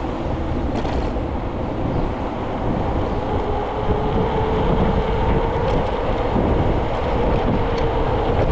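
Wind rushing over the microphone and the rolling noise of a moving bicycle, with a steady hum setting in about three and a half seconds in.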